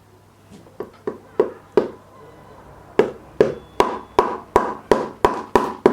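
Hammering: a few single knocks, then a steady run of blows at about three a second, each with a short ring.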